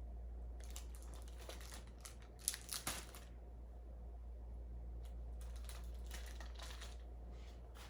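Faint rustling and crinkling of sterile-kit packaging as a packet of sterile gloves is pulled out, in three spells with the sharpest crackles about two and a half seconds in, over a low steady hum.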